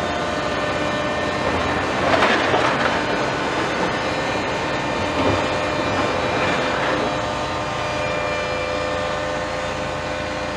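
Heavy diesel construction machinery running steadily, with a brief louder burst of noise about two seconds in and smaller ones a few seconds later.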